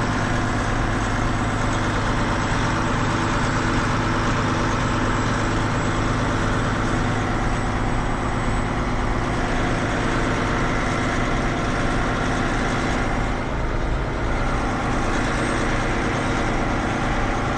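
Semi truck's diesel engine running steadily at low revs, with a constant even drone.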